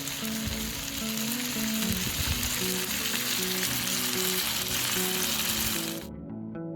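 Food frying in a hot pan, a steady sizzle over background music, which cuts off suddenly about six seconds in.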